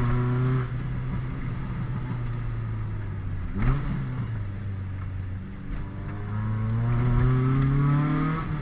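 Honda Civic four-cylinder engine heard from inside the car under spirited driving. It revs up and eases off, runs steadily, and gives a quick rise and fall in revs about midway. It then climbs steadily through the revs and drops back near the end, as at an upshift.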